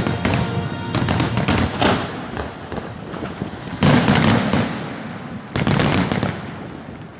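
Fireworks display bursting and crackling, with several loud bangs spread through, the last big one a little past halfway, then tailing off near the end.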